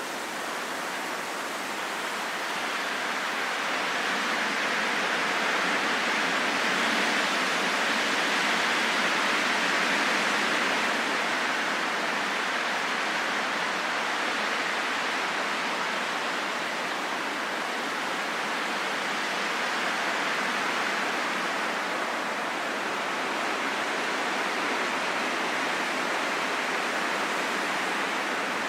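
Steady wind rushing in a soft hiss with no deep rumble and no whistling tone, swelling to its loudest about a third of the way through, then easing, with smaller swells later.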